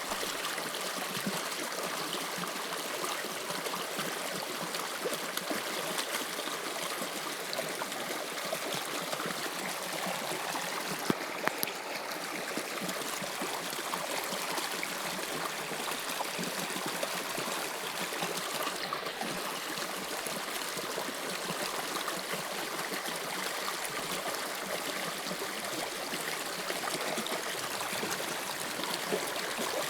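Subway train running through a tunnel: a steady rushing noise, with a sharp click about a third of the way in and another near the end.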